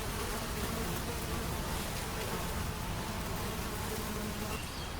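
Flies buzzing in a steady, wavering drone. A few faint bird chirps come near the end.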